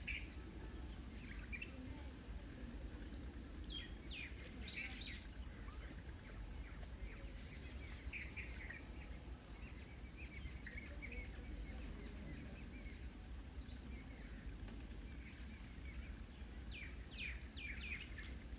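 Small birds chirping in scattered bursts of quick, high, downward-sweeping notes, over a faint steady low background rumble.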